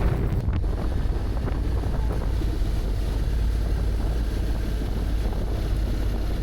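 Wind buffeting the microphone of a motorcycle riding at road speed: a steady low rumble.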